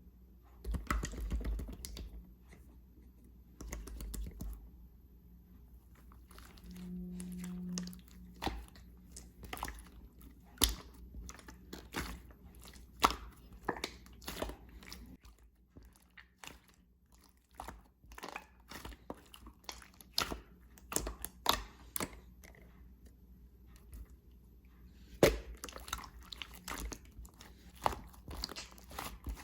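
Hands squishing and poking a purple slime, with many quick, irregular pops and clicks.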